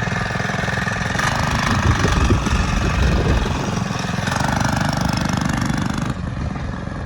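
Mini bike's small engine running as the rider sets off, getting a little quieter after about six seconds.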